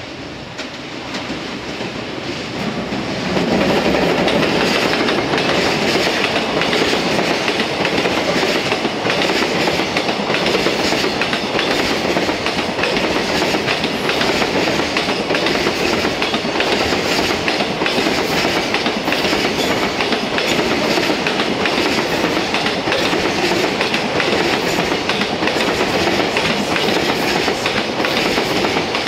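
EF210 electric locomotive hauling a container freight train past: the noise grows as the locomotive nears and goes by about three seconds in, then a loud, steady run of container-wagon wheel noise with repeated clicks over the rails.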